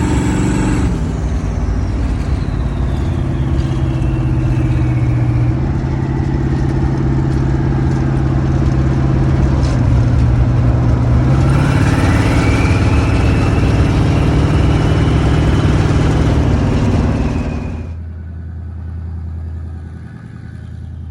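Rat rod's twin-turbo 350 small-block Chevrolet V8 under way. A high whine falls over the first few seconds, then rises again about twelve seconds in as the engine pulls. Near the end the engine sound drops away suddenly as it comes off the throttle.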